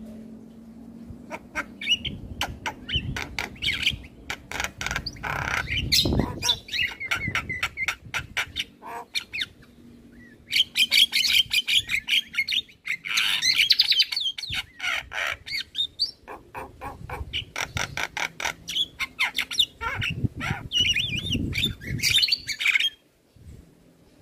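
Male Javan myna (jalak kebo) singing a long, varied song of rapid clicking rattles, chattering warbles and harsh squawks. The song breaks off about a second before the end.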